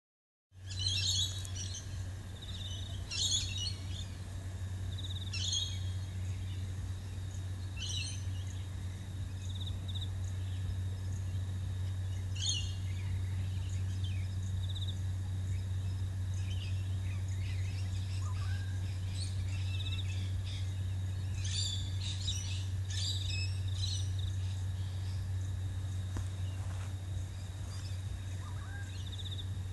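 Birds calling, with short bursts of chirps every few seconds that cluster near the start and again about two-thirds of the way through, over a steady low hum and a thin, continuous high tone.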